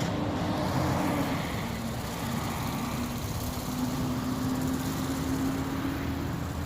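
Wind rumbling on the microphone outdoors, with a steady low hum that dips slightly in pitch and rises again.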